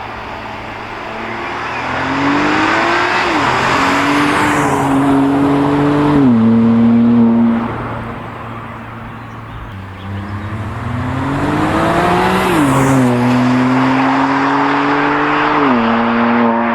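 BMW M2 Competition's twin-turbo straight-six, on its stock exhaust with particulate filter, accelerating hard twice. Each run climbs in pitch and drops sharply at two upshifts.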